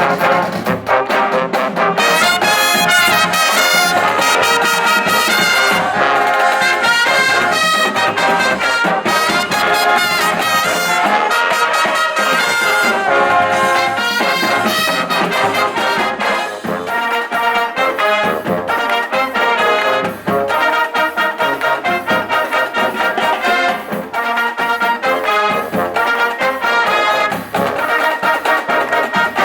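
Marching band playing with a full brass section of trumpets and trombones over a steady drum beat.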